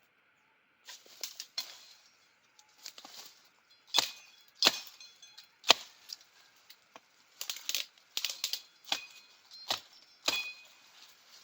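Sticks being chopped for a homemade trap: about a dozen irregular sharp strikes, several of them followed by a brief ring.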